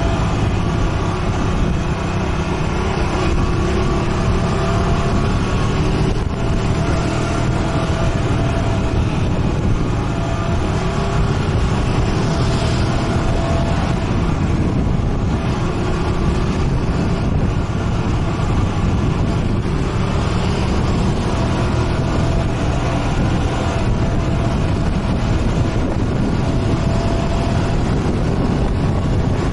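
Motorcycle engine running steadily while riding, its pitch staying level.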